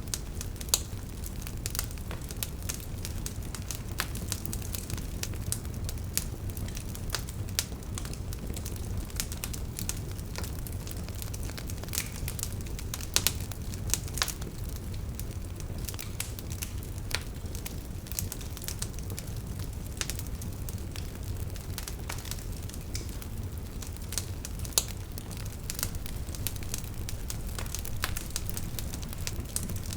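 Campfire burning: a steady low rumble with irregular sharp pops and crackles from the burning wood.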